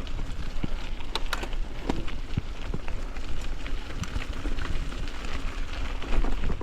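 Bicycle riding over a rough trail: tyres on dirt and stones with irregular knocks and rattles from the bike, over a steady low wind rumble on the microphone.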